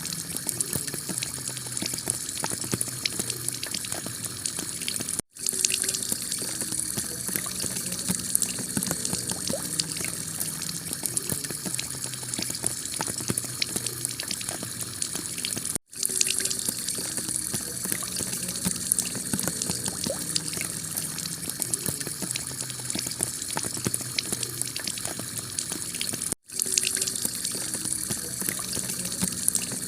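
Heavy rain falling on a clay-tile roof: a steady, dense patter of drops. The sound cuts out for an instant three times, about ten seconds apart.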